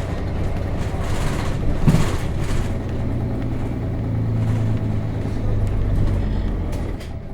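Nissan Diesel RM bus's FE6 straight-six diesel engine running, heard from inside the cabin, with a single knock about two seconds in. The low engine hum drops away near the end.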